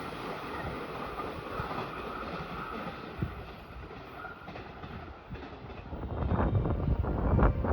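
Train running on the rails, its noise easing off over the first few seconds. Near the end it grows louder again, with wind buffeting the microphone.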